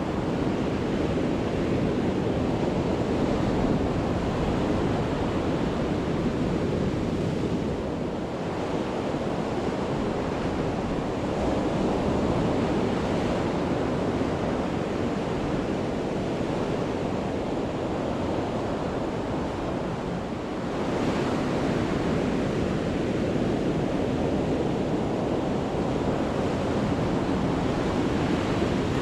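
Sea waves breaking and washing up on a beach in a continuous rush of surf, with short lulls about 8 and 20 seconds in, each followed by a fresh surge of breaking waves.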